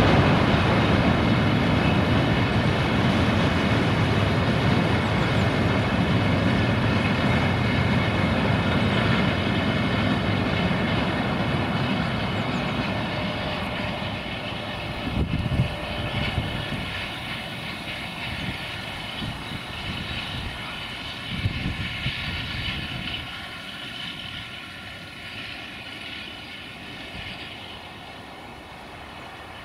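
Loaded freight hopper wagons rolling past on the rails, a heavy rumble with a steady high whine over it, fading as the train moves away. A few short clanks come through, one about halfway and another a few seconds later.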